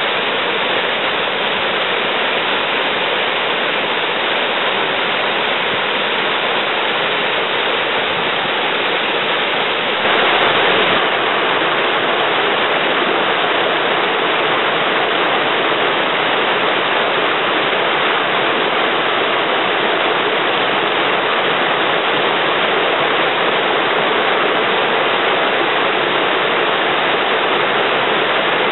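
Waterfall rushing steadily, a little louder from about ten seconds in.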